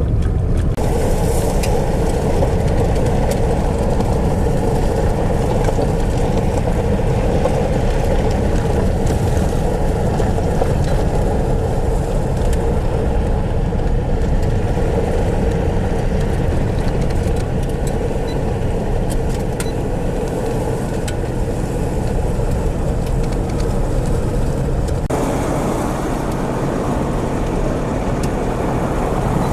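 Vehicle driving, a steady mix of engine and tyre noise; its tone shifts about 25 seconds in.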